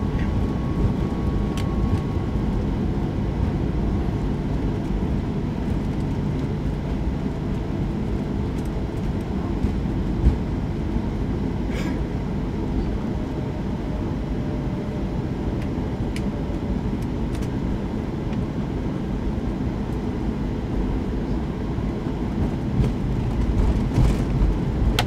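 Cabin noise inside a Boeing 737-800 rolling on the ground after landing: a steady low rumble from the CFM56 engines and the wheels on the pavement. A single thump comes about ten seconds in.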